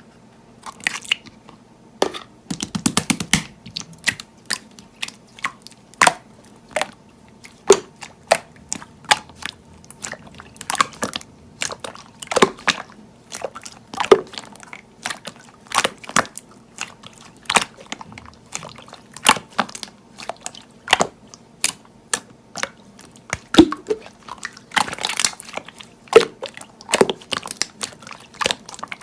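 Crunchy chewing: sharp crisp crunches about once a second, with a quick rattling run of crunches about three seconds in.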